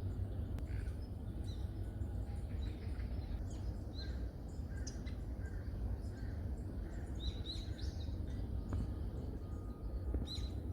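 Forest birds calling: scattered short, high chirps and calls, with one brighter call near the end, over a steady low rumble.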